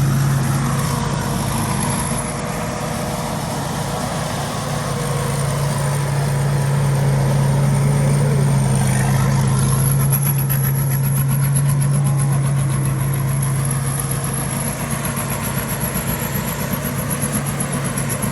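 An engine running steadily, a continuous low drone with a fast even pulse.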